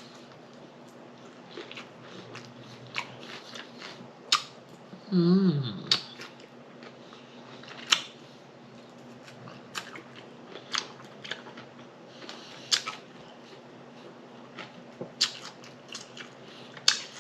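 Close-miked eating sounds: chewing with wet lip smacks and mouth clicks scattered irregularly, and a short hummed "mm" about five seconds in.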